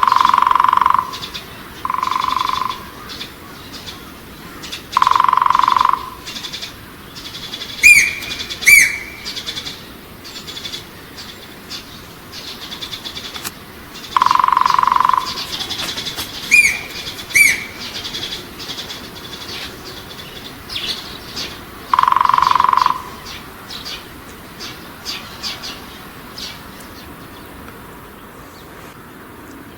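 Wild birds calling: a long steady whistled note repeated five times at uneven gaps, with two pairs of short, sharp, downward-sweeping chirps between them.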